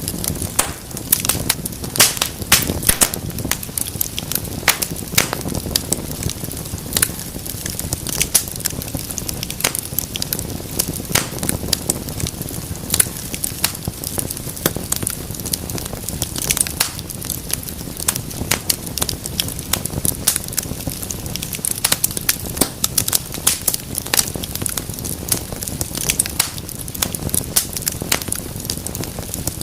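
Wood fire crackling steadily, with many irregular sharp pops and snaps over a low, even rush of flame.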